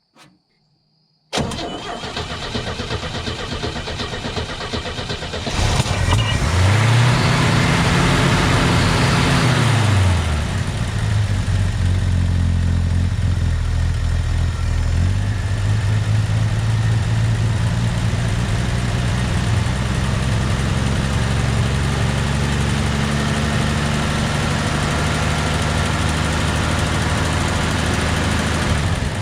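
1966 Chevrolet C30 truck engine turned over on the starter for about four seconds to pump fuel up to the freshly resealed carburetor, then catching, revving up and dropping back to a steady idle.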